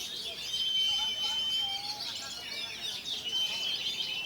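Oriental magpie-robin (kacer) singing: a fast, varied stream of high chirps and warbles, with a long steady whistled note held about half a second in and another near the end.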